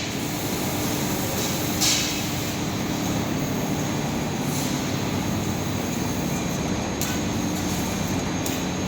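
CNC fiber laser cutting machine running: a steady mechanical drone with a faint hum, broken by a few short hisses.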